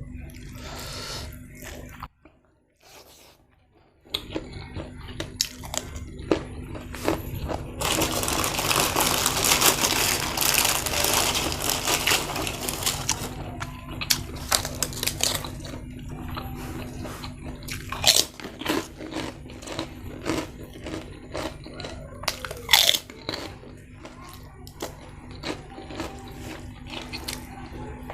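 Close-up eating sounds: chewing and biting, with many small crunches and a long stretch of loud, dense crunching of crisp food about eight seconds in, after a brief pause near the start.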